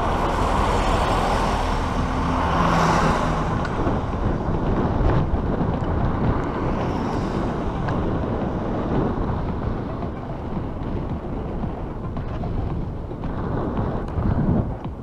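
Headwind rushing over the microphone of a moving bicycle, a steady rumbling noise, with a louder swell about two to four seconds in.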